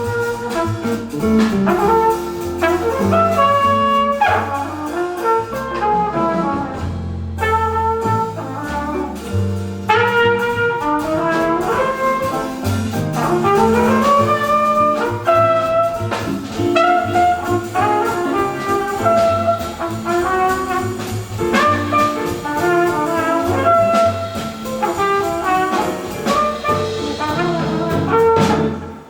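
Jazz quintet playing: a flugelhorn leads over piano, guitar, double bass and drums. The band stops on a sudden cut-off at the very end.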